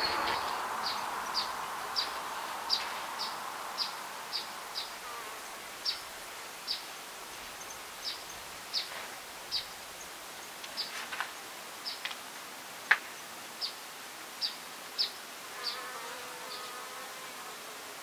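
A small bird repeats short, high chip calls, irregularly about twice a second, with one sharper and louder note about two-thirds of the way through. A buzzing insect, a fly or bee, is audible at the start and fades within the first few seconds. A fainter buzz comes back near the end.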